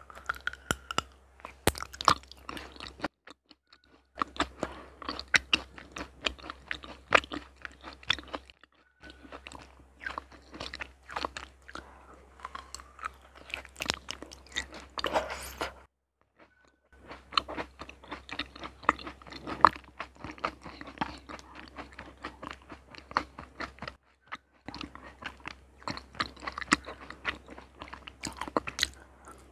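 Close-miked biting and chewing of raw honeycomb: dense small crunchy, sticky clicks and crackles, in stretches broken by a few brief silent gaps.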